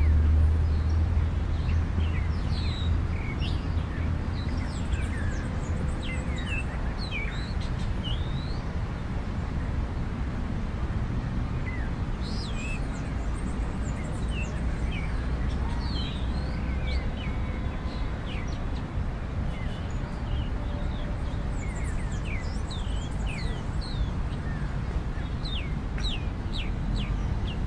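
Small birds chirping: many short, high calls scattered throughout, over a steady low rumble.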